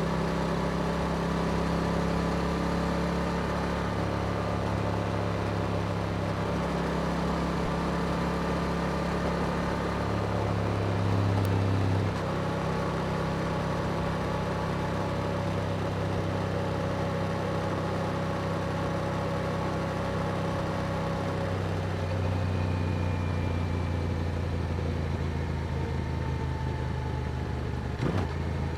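Yamaha R7's 689 cc parallel-twin engine running through an Akrapovic exhaust, cruising at nearly steady revs with small rises and falls in pitch. Near the end there is a short click and a brief dip in the engine note.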